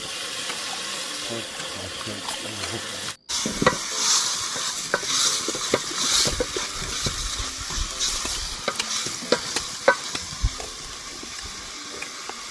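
Meat sizzling and crackling over an open fire, with scattered sharp pops. The sound cuts out for a moment about three seconds in.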